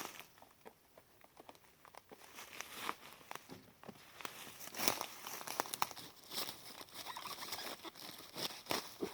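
Irregular rustling and crackling of dry forest litter, leaves and twigs being handled and stepped through while mushrooms are picked, with a few louder crackles about halfway through.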